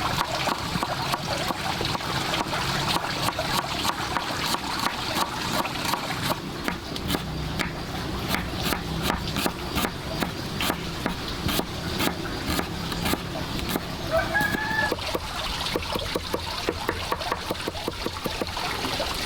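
Farmyard chickens clucking, over many sharp clicks and taps that come thickest in the second half, with one short call about two-thirds of the way through.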